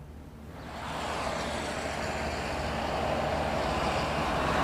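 Steady outdoor background noise with a low rumble, like street traffic, swelling up over about the first second and then holding.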